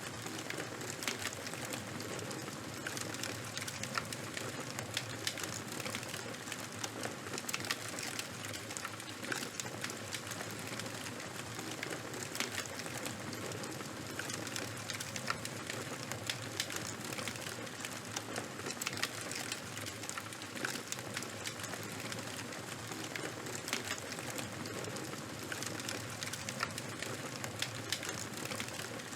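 Fire crackling, with many small sharp pops over a steady hiss.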